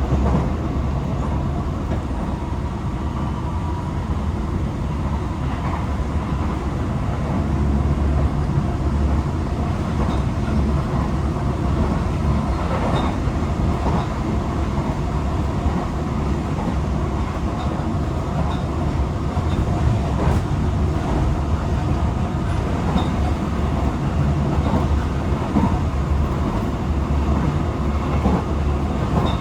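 Interior running sound of a Tokyo Metro 18000 series electric train on the move: a steady rumble of wheels on rail, with a few faint clicks.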